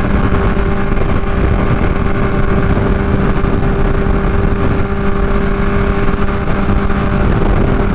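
Kawasaki Ninja H2's supercharged inline-four through a full titanium Vandemon exhaust, running at a steady cruising speed with an even, unchanging engine note, with wind and road noise rushing over the helmet microphone.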